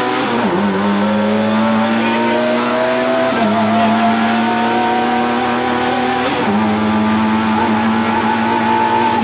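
Rally car engine heard from inside the cabin, pulling hard under acceleration. Its note climbs slowly in each gear and dips briefly at each upshift, about half a second, three and a half and six and a half seconds in.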